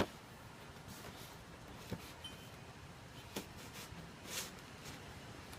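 Faint handling of a cardboard model box: a few light, isolated taps and one brief rustle about four seconds in.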